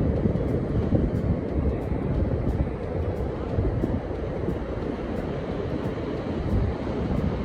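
Wind buffeting the microphone over the rumble of ocean surf on a beach.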